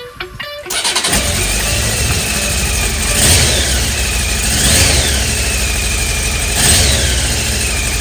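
1997 Honda CBR900RR Fireblade's inline-four engine running, with the throttle blipped three times, each rev rising and falling back. Music cuts off under a second in, when the engine sound begins.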